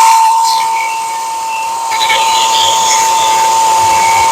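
Milwaukee M18 FUEL cordless top-handle chainsaw running at full speed with a steady high whine as the chain cuts through an old wooden fence post. The level dips slightly about a second in and comes back up about a second later.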